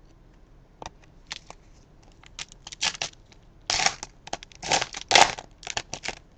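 Crinkly foil wrapper of a trading card pack being torn open and handled: scattered sharp crackles, then several louder crinkling bursts in the second half.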